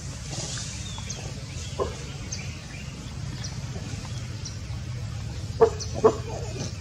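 Outdoor ambience with faint high chirps recurring about once a second over a steady low hum, and two short, loud animal calls about half a second apart near the end.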